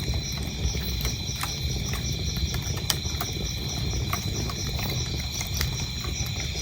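Wood fire crackling, with frequent sharp pops over a low steady rumble, one pop louder about three seconds in. Crickets chirp in a steady high pulsing rhythm behind it.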